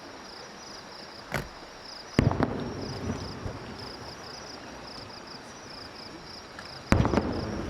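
Aerial firework shells bursting: a smaller bang about a second and a half in, then two loud booms, one at about two seconds and one near the end, each trailing off in a rumble. Insects chirp in a steady pulsing rhythm throughout.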